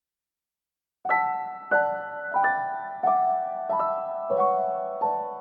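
Background music: soft piano, starting about a second in, with gentle chords struck roughly every two-thirds of a second and each chord ringing and fading, the notes stepping slowly downward.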